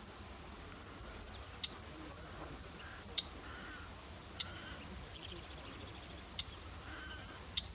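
Clamorous reed warbler calling softly: sharp ticking notes about once every second or so, with faint harsh chattering notes between them and a brief rapid trill about five seconds in.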